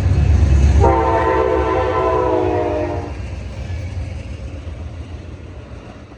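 Train horn sounding one blast of about two seconds, starting about a second in, over the low rumble of a passing diesel train, which then fades steadily away.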